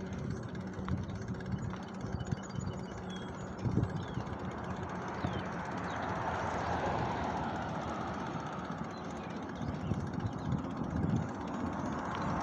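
Highway traffic rushing past close by, with one vehicle swelling past about halfway through.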